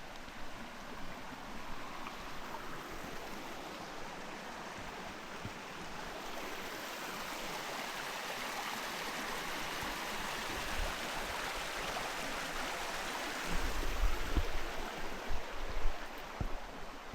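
Rushing water of a waterfall: a steady hiss that grows louder over the middle of the stretch. Near the end, low bumps and thumps on the microphone come in over it, louder than the water.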